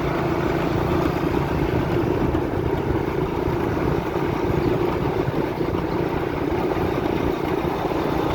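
Motorcycle engine running steadily with rough noise underneath and no clear revving.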